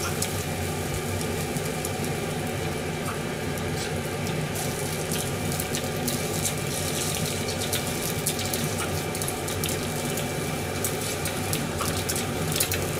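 Egg-wrapped sandwich pieces frying in a frying pan, a steady sizzle throughout, with a few light clicks as the pieces are moved with chopsticks.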